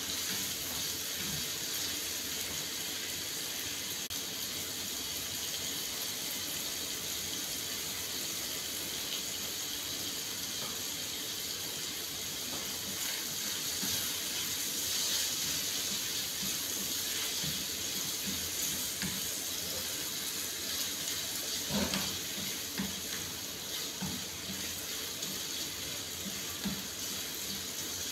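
Chicken breast pieces sizzling in liquid in a nonstick frying pan over a gas flame, a steady hiss, with scattered light scrapes and taps of a spatula against the pan and one louder knock a little over twenty seconds in.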